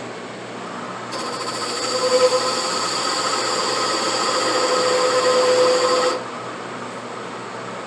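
A lathe working a piece of ebonite for a pipe stem: a steady cutting sound with a bright hiss and a steady tone, starting about a second in and stopping suddenly after about five seconds, over a steady room hum.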